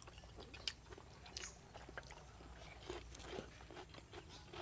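Faint crunching and chewing of people eating, with scattered light clicks from handling food at the table.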